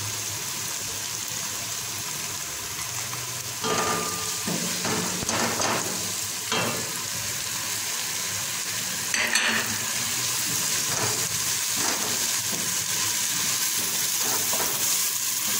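Tomato sauce frying and sizzling in a nonstick pot while a wooden spatula stirs it, with several scraping strokes in the middle and a sharper click about nine seconds in.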